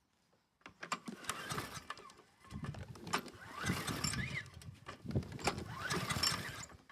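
Three pull-start attempts on a cold lawnmower's Briggs & Stratton 650E engine. Each pull cranks the engine with a whirr of the recoil starter for about two seconds, and the engine does not catch, because it has not yet been put on choke.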